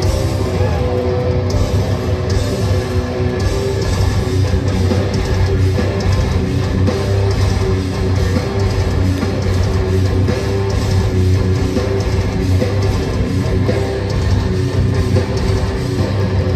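Live heavy metal band playing at full volume: electric guitars and bass guitar over a drum beat.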